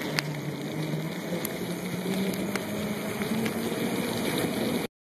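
Bicycle rolling fast downhill on a paved trail: steady wind rush on the microphone and tyre noise, with a low hum that rises a little in pitch as speed builds and a few light clicks. The sound cuts off abruptly near the end.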